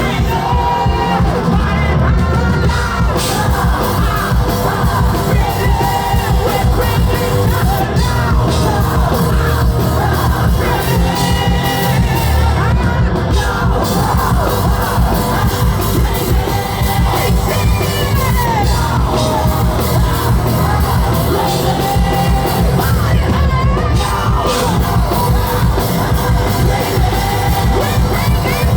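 Rock band playing live at full volume, with a singer's sung and shouted vocals over the band.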